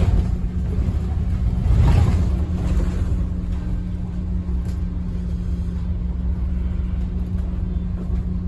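Scania N230UD bus's five-cylinder diesel engine running with a steady low hum. It swells louder about two seconds in, then settles to an even drone.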